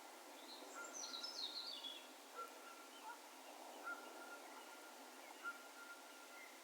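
Distant birds calling with echo: a quick falling run of high twittering notes about a second in, and a faint plain whistled note repeated about every second and a half.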